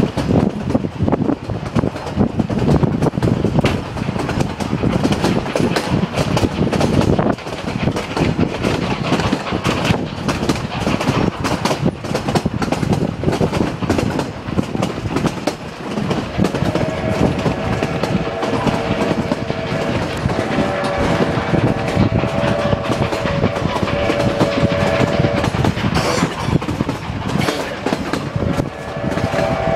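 Narrow-gauge passenger train running, heard from an open-air car: a steady clatter and rattle of wheels on the rails. About halfway through, the steam locomotive ahead blows its whistle in several blasts, and it sounds again near the end.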